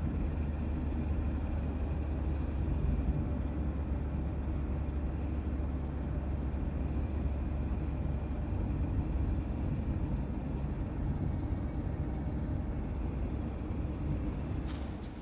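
Boat engine running steadily under way, a low even drone.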